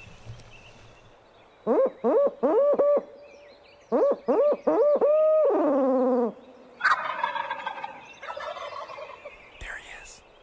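Wild turkey calls: two runs of loud, sharp yelps, the last note drawn out and sliding down. From about seven seconds in comes a quieter, rattling gobble.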